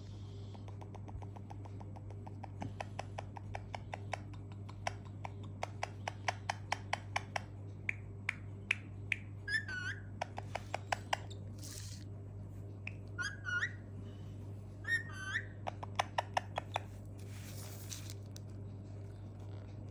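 Pet parrot making long runs of quick clicking ticks, broken by a few short warbling whistles, with a short hissing burst about 12 seconds in and another near the end. A steady low hum runs underneath.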